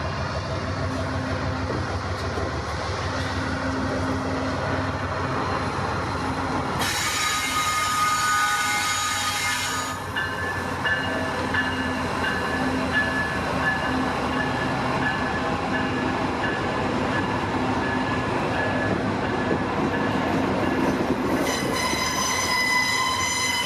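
CPKC freight train rolling past close by, a steady rumble of wheels on rail. About seven seconds in there are three seconds of high-pitched squealing tones, and they return near the end.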